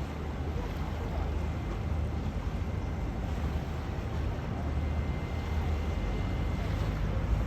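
Wind buffeting the microphone over a steady low rumble, with a faint thin high tone in the middle.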